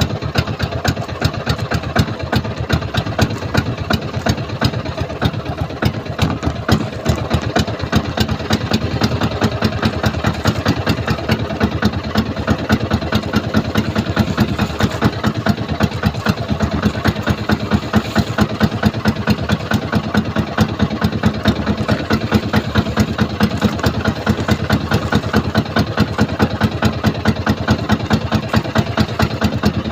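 A small fishing boat's engine running steadily at an even, low speed, its exhaust beating in a rapid regular pulse.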